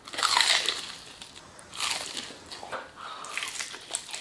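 Crunchy bites into fried chicken close to the microphone, two loud crackling crunches followed by quieter chewing.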